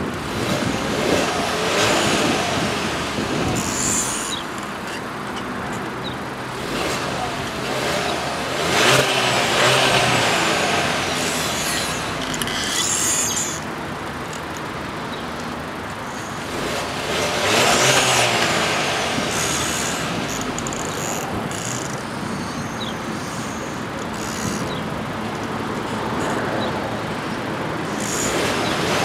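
Skoda Octavia 1.4 TSI turbocharged four-cylinder petrol engine revved several times while stationary, rising and falling in pitch between steady running. It is held back by a limiter around 4,000 RPM.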